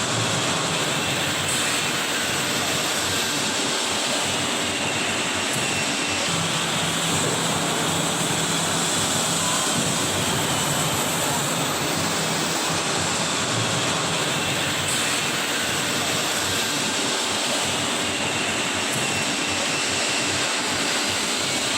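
Hydraulic CNC stretch bending machine running: a steady, even mechanical noise with a faint low hum and no distinct knocks.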